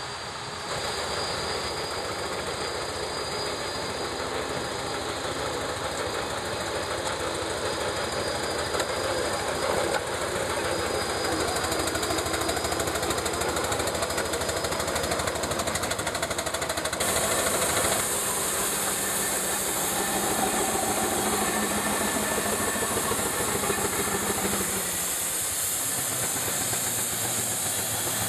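Steam traction engine working, a steady mechanical clatter. About halfway through, a loud steam hiss sets in and carries on.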